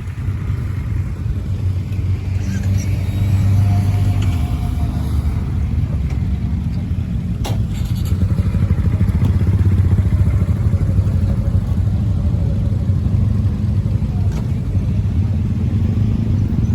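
Motorcycle engine running with a steady low rumble that swells a little twice, and a single sharp click about halfway through.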